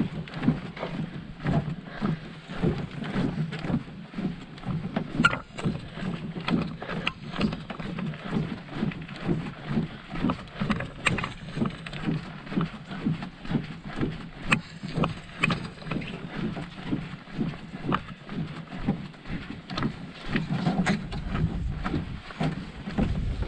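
Canoe paddling: regular paddle strokes with water splashing, about two strokes a second.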